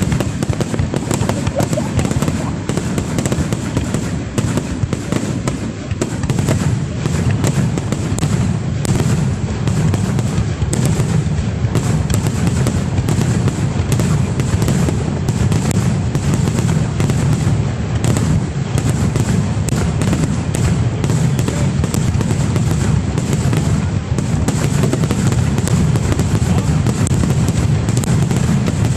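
Aerial fireworks display: a dense, unbroken barrage of booms and crackling bursts.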